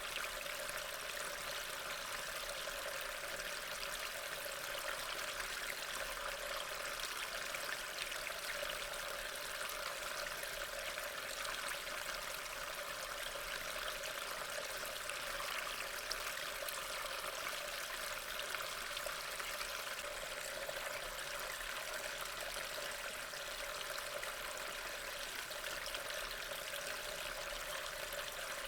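Steady rain, an even hiss that keeps on without change.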